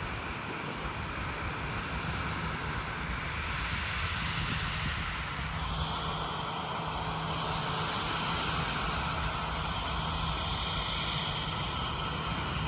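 Jet airliner engines running, heard as a steady rushing noise; a low hum and a high whine come in about halfway through.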